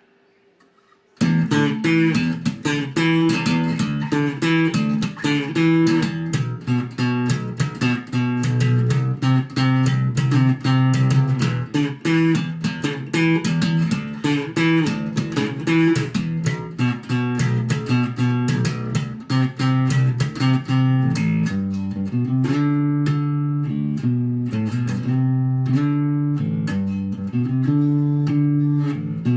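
Epiphone Grabber electric bass played with its humbucker coil-split to single coil and the tone rolled all the way up: a fast run of plucked notes with sharp attacks starting about a second in, changing to longer, held low notes in the last seven seconds or so.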